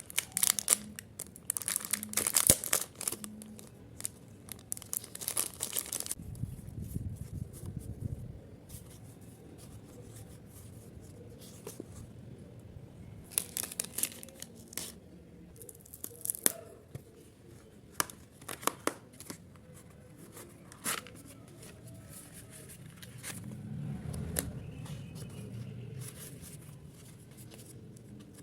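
Stationery packaging being torn open, crinkled and handled: bursts of rustling and tearing with sharp clicks and taps between, busiest in the first few seconds.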